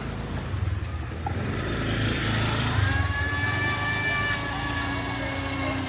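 A motor vehicle running close by on a city street: a steady low engine rumble, joined about two seconds in by a steady whine that lasts to near the end.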